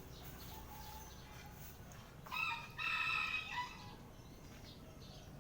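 A rooster crowing once, a single call of about a second and a half with a short break partway through.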